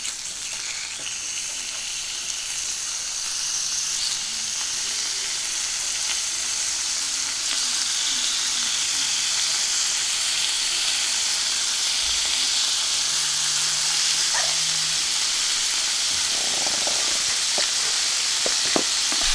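Slices of kalbi beef sizzling on a hot iron griddle, the sizzle growing louder over the first several seconds and then holding steady. A few light clicks near the end.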